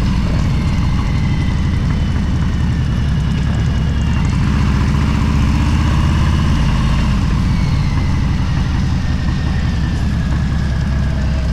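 Motorcycle engine running steadily under way, a deep low rumble with road noise and a few slowly wavering higher tones.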